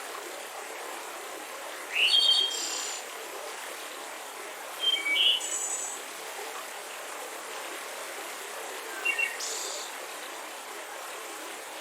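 A songbird singing short, bright phrases three times, a few seconds apart, over the steady rushing of a mountain river.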